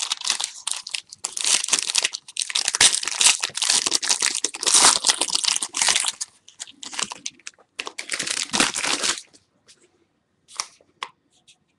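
A trading-card pack being torn open, its wrapper crinkling and crackling for about nine seconds. It then goes mostly quiet, with a couple of short clicks near the end.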